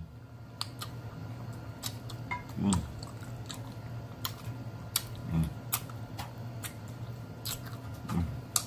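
Close-up chewing of hot-sauced pig's feet, with wet mouth clicks and smacks at an uneven pace and three stronger smacks spaced a few seconds apart, over a faint steady low hum.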